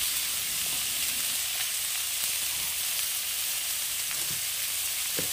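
Onion, tomato and ginger-garlic paste sizzling steadily in hot oil in a steel kadai.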